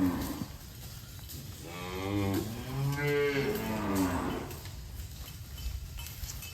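Cattle mooing: the tail of one moo right at the start, then a long, drawn-out moo from about two to four seconds in.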